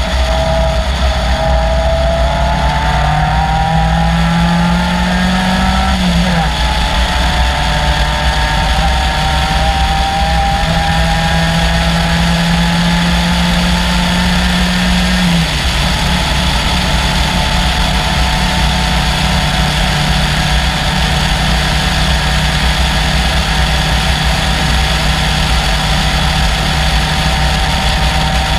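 Caterham Seven's 2.3-litre Ford Duratec four-cylinder engine running hard, heard from on board over a steady rush of noise. Its pitch climbs gradually and drops sharply twice, about six seconds in and again about fifteen seconds in.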